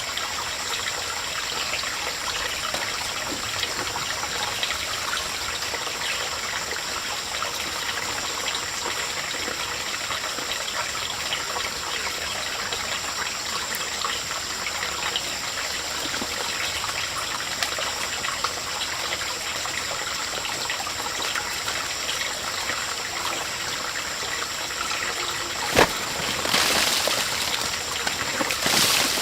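Steady rush of running water. A single sharp knock comes about 26 seconds in, and the noise grows louder after it.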